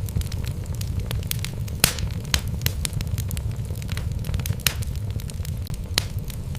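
Wood fire burning in a fireplace: a steady low rumble of flames with irregular crackles and sharp pops from the burning logs, the loudest pops about two seconds in and near the end.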